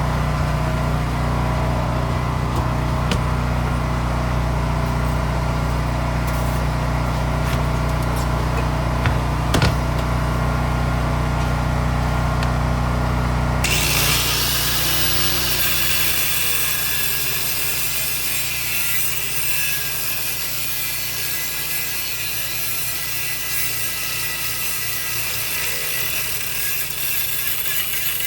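A power tool running steadily during car suspension work. About halfway through, the sound changes abruptly: the low hum drops away and it turns bright and hissy.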